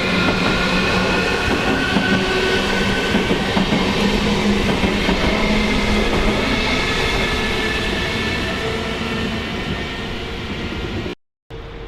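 A train running past close by: wheel and running noise with several steady whining tones, slowly fading over the last few seconds. The sound cuts out abruptly near the end.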